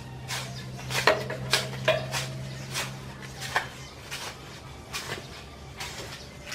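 Irregular clinks and knocks of hard objects, a few with a short metallic ring, over a steady low hum that stops about four seconds in.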